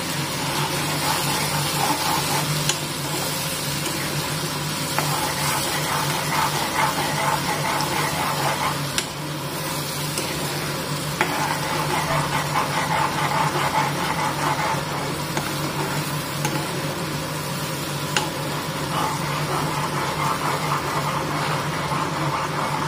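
Red chilli paste sizzling and spluttering as it fries in hot mustard oil in a kadai, stirred with a steel ladle that clicks now and then against the pan.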